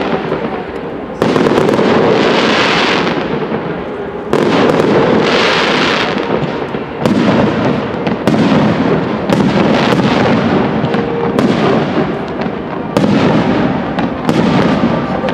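Aerial fireworks display: a run of loud bursting shells, each a sudden bang followed by a fading crackling hiss, coming every one to three seconds.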